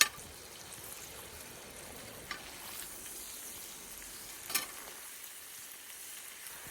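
Pork belly sizzling steadily in a small pan over a wood fire, with a few short sharp pops.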